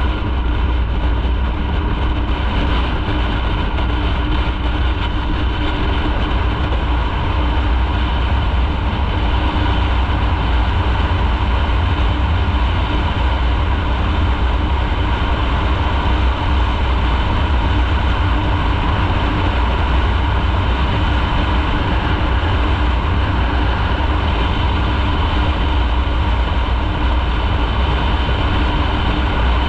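Motorcycle riding at a steady speed: its engine holds an even note over a heavy low rumble.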